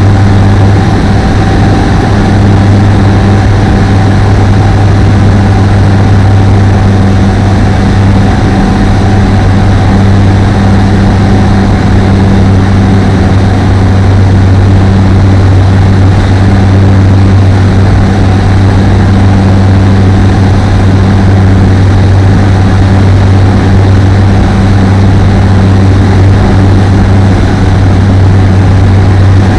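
Apollo Fox ultralight aircraft's engine and propeller running steadily: a loud, unbroken drone that holds the same pitch throughout.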